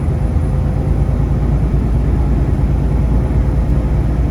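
Semi truck's diesel engine and tyre noise at highway cruising speed, heard inside the cab as a loud, steady low drone.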